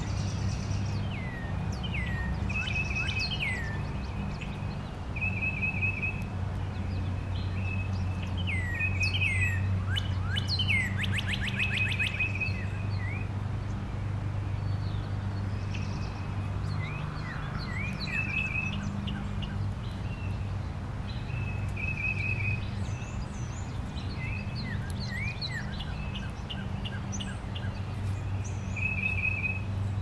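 Backyard songbirds chirping and calling: short repeated trills, quick downward-slurred notes and, about eleven seconds in, a fast run of clicking notes, over a steady low hum.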